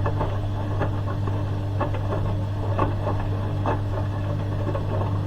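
Hoover H-wash 300 Plus washing machine's drain pump running with a steady low hum, faint irregular ticks over it.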